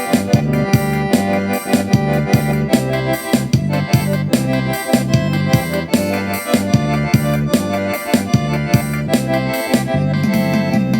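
Instrumental music led by an accordion (sanfona), with sustained chords and a steady percussive beat.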